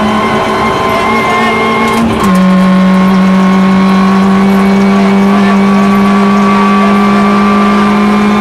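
Rally car's engine heard from inside the cabin, running hard at high revs. About two seconds in its pitch drops once with a gear change, then holds steady under load.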